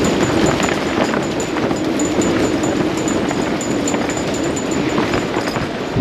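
Strong wind of up to 30 knots blowing over an anchored sailboat: a steady rushing noise with a low howl that wavers in pitch.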